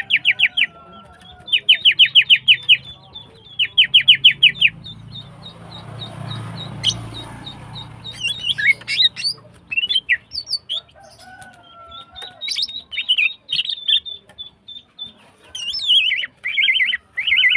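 Female green leafbird (cucak ijo) calling: three fast trilled bursts of repeated high notes in the first five seconds, then scattered chirps and whistles, with more trilled bursts near the end.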